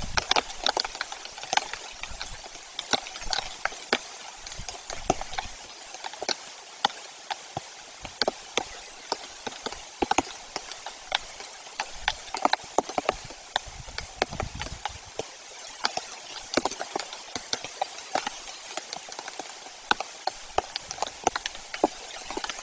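Rain falling: irregular sharp ticks of drops, several a second, over a steady hiss.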